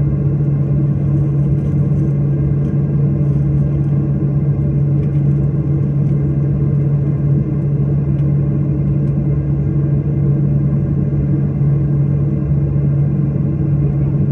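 Steady drone of an airliner's engines heard from inside the passenger cabin, with a strong low hum that holds at one pitch and an even level throughout.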